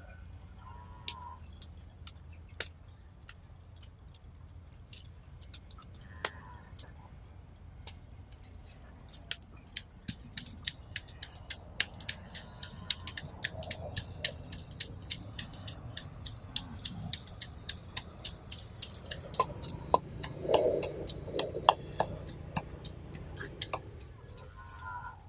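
Wood fire crackling with irregular sharp snaps and pops, growing denser about a third of the way in, over a low steady hum, with a short louder mid-pitched sound near the end.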